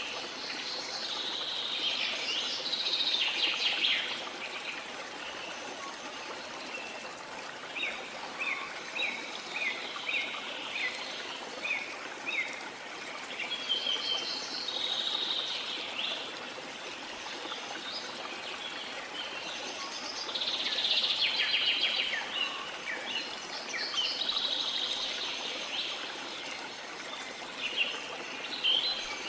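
Steady rush of waterfall water under tropical forest birds singing. The birds come in dense bursts of song several times, with a run of short chirps between them.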